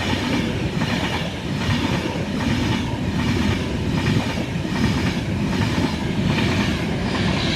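Class 390 Pendolino electric train passing through the station, its wheels clattering in a steady beat about once a second.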